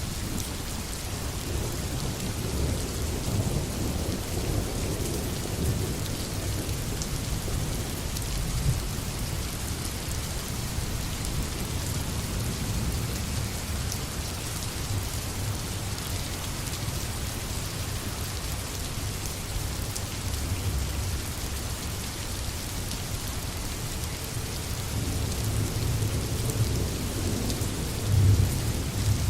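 Steady rain falling in a forest, an even hiss of drops, over a deep low rumble. The rumble swells a few seconds in and again near the end.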